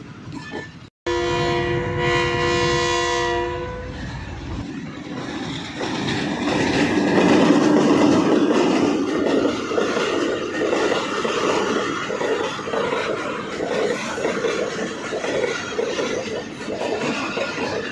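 Train horn blowing one long chord for about two and a half seconds, then the train running on the rails with a heavy rumble and wheel clatter, loudest about halfway through.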